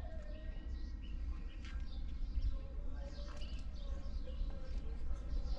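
Outdoor ambience: birds chirping in short scattered calls over a low rumble.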